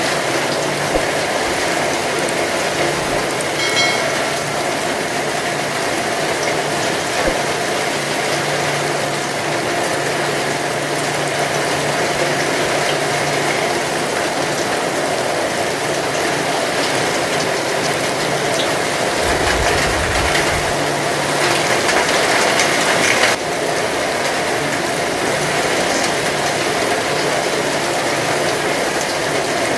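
Heavy rain falling steadily, a dense even patter. A short low rumble comes about two-thirds of the way through.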